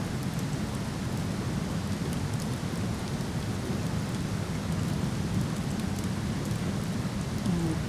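Steady rushing of a waterfall, a dense low noise that doesn't let up, with faint sparse crackles of a wood campfire on top.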